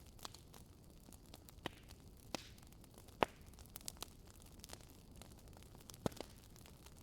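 Wood fire burning in a fireplace: a low steady hiss with scattered sharp crackles and pops, the loudest a little after three seconds in and again about six seconds in.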